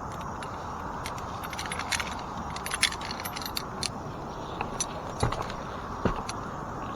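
Tree-climbing hardware clinking and jingling, carabiners and metal gear knocking together, with a few sharper knocks against the trunk about three, five and six seconds in. Under it runs a steady rush of wind on the microphone.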